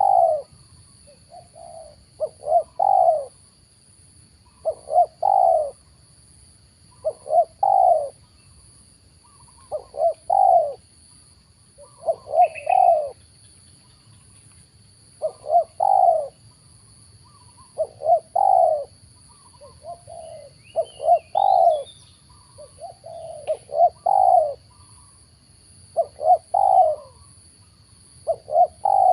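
Spotted dove (tekukur) cooing, its short phrases repeating about every two and a half seconds, around a dozen times. A brief higher chirp from another bird comes in around the middle.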